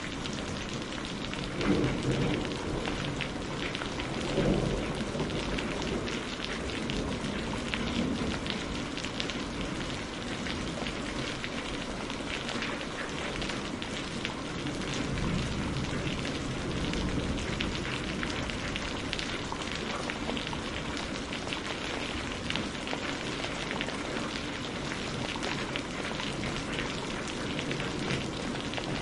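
Steady rain pattering together with a crackling wood fire. There are two brief low rumbles, the loudest moments, about two seconds and four and a half seconds in.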